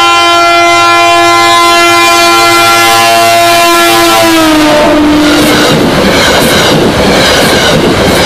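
Metro-North commuter train horn sounding one long, very loud chord as the cab car approaches at speed. The chord drops in pitch as the cab passes and cuts off. It is followed by the rush and rhythmic wheel clatter of the coaches going by fast.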